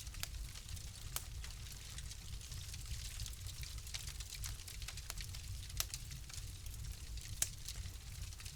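Wood fire crackling in a fireplace: irregular sharp pops and snaps over a soft hiss and a low steady rumble, with one louder pop near the end.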